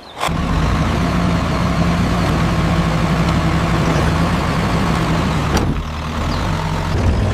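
Tractor engine sound effect running steadily with a low, even hum. It cuts in abruptly at the start, and about three-quarters of the way through its higher hiss drops away while the engine keeps running.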